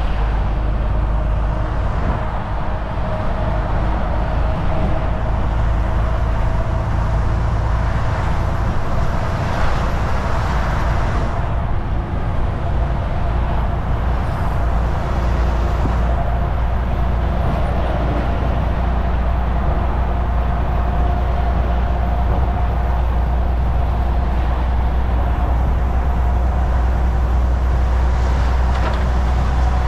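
Semi truck (Volvo VNL 760) cruising at highway speed: a steady low engine drone under a continuous rush of tyre and road noise, with a brief swell of rushing noise about ten seconds in.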